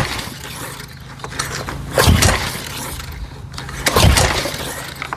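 Small gasoline engine on a pressure washer being pull-started twice, about two seconds apart: each yank of the recoil starter briefly spins the engine over, but it does not catch.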